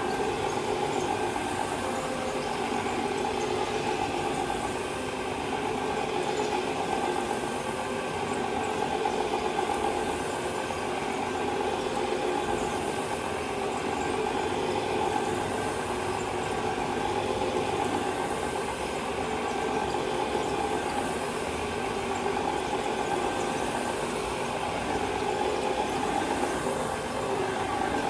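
Steady motor drone of carpet-cleaning machinery, a CRB brush machine or a commercial vacuum, running without a break, over the steady hiss of a pressure washer spraying in the basement.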